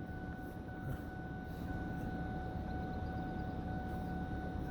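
Vehicle engine idling, heard as a steady low rumble from inside the cab, with a steady thin tone held throughout.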